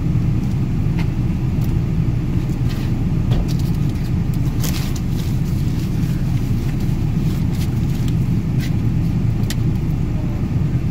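Car driving: a steady low rumble of engine and road noise, with scattered faint clicks and knocks.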